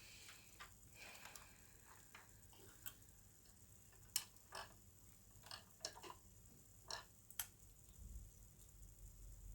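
Faint, irregular clicks and taps of small plastic model parts and tubes being handled and pushed into place, the sharpest click about four seconds in.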